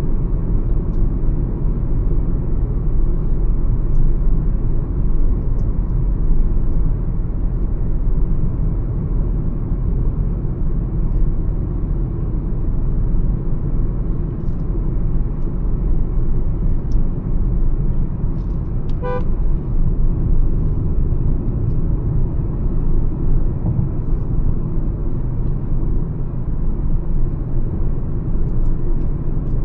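Steady low rumble of a Mahindra XUV 300 cruising at highway speed: road and tyre noise with engine drone. A car horn gives one short toot about two-thirds of the way through.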